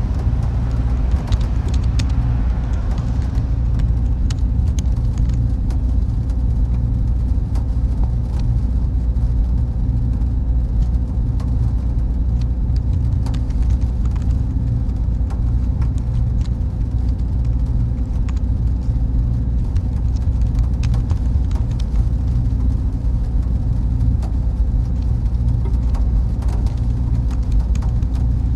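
Server room ambience: cooling fans and machines running with a steady low rumble and hum, and a faint steady tone above it.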